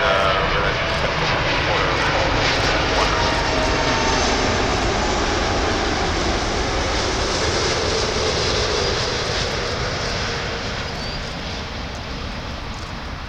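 Airliner engines passing at an airport, a loud steady engine noise with faint whining tones sliding in pitch, slowly fading over the last few seconds.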